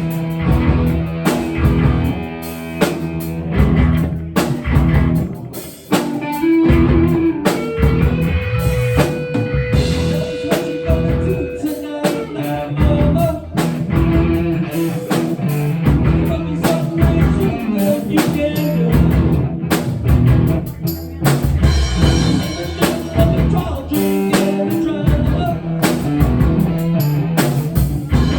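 Rock music with a drum kit and guitar playing steadily, with one long held note in the middle.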